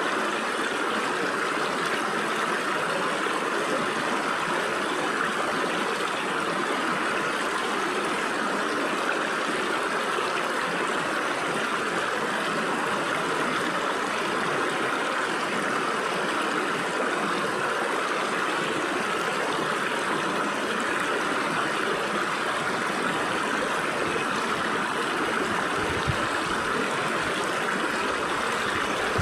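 Stream water running and splashing through gaps between rocks, a steady rushing sound, brightest in the mid range.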